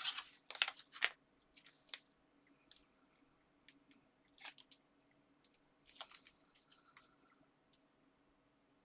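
Paper and card being handled: scattered crisp rustles and sharp clicks, several close together in the first second, then sparser ones that die away near the end.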